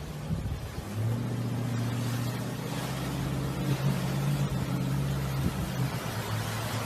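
A vehicle engine running at a steady speed. Its low hum sets in about a second in and grows a little louder.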